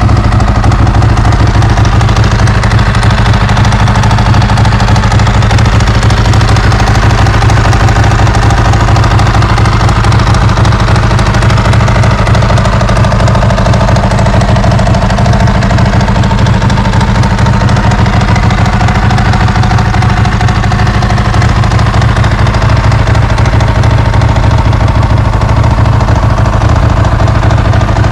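Ducati 916's 90-degree V-twin engine idling steadily while warming up after a cold start.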